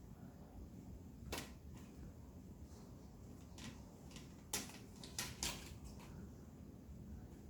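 A handful of short, light knocks and clicks, scattered and irregular, the loudest about halfway through, over a faint steady room hum.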